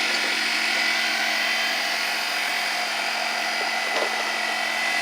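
Air compressor running steadily: a constant mechanical hum with a hiss over it that does not change.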